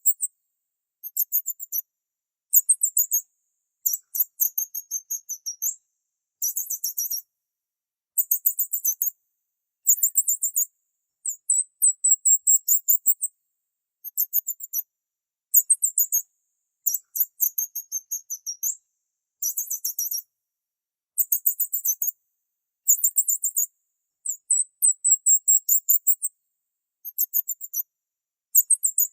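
Small bird chirping in short phrases of quick, very high-pitched notes, each phrase a second or two long, with clean silent gaps between them.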